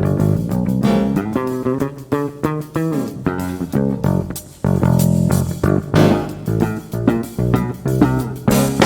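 Country band playing an instrumental passage without vocals: a picked guitar line of separate notes over bass guitar, with a cymbal crash near the end.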